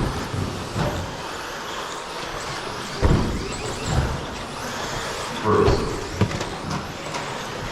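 Radio-controlled 13.5 electric stadium trucks racing around the track: a steady whir and rush of motors and tyres, broken by several short thumps.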